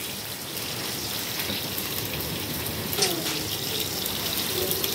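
Steady hiss of rain falling, with a sharp knock about three seconds in and a faint voice near the end.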